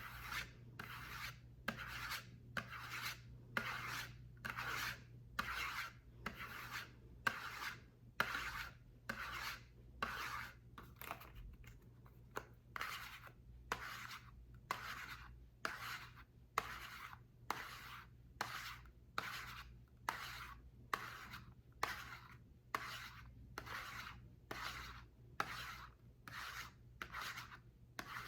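Steady, even rasping strokes on a bar of soap, about one and a half strokes a second, as it is rubbed or scraped over and over.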